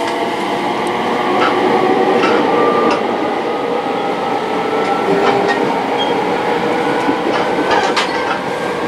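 Electric train heard from inside the carriage: the traction motors whine in several tones that slowly rise in pitch as it picks up speed, over rumbling running noise. A few sharp clicks come from the wheels.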